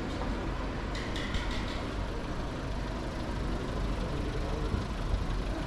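City street ambience carried by a steady low rumble of motor traffic. A brief run of high clinking ticks comes about a second in.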